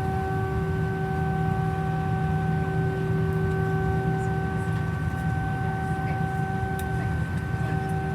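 Airbus A319 cabin noise: a steady low rumble under several steady whining tones.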